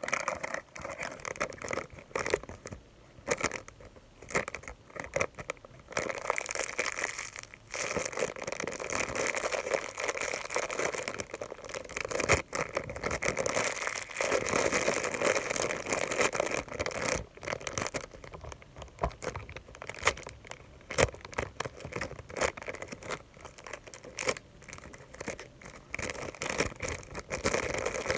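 Close-up ASMR crinkling and scratching: a dense, irregular run of small crackles and rustles, with a few sharper clicks.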